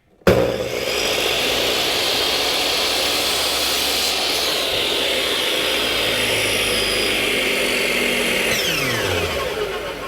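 An electric power tool in a woodshop switched on, running steadily for about eight seconds, then switched off and winding down with a falling pitch near the end.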